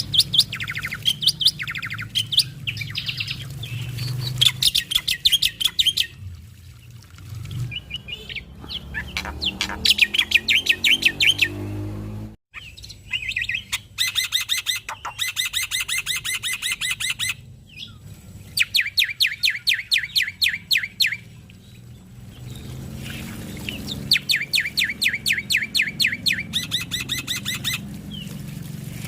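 Male black-winged starling (jalak putih) singing in full voice: several runs of rapid, evenly repeated high chattering notes, each run lasting a few seconds, with short varied calls between them.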